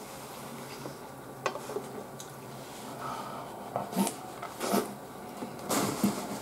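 A person chewing soup-soaked white bread with wet mouth and lip sounds, a few sharper smacks about four, five and six seconds in.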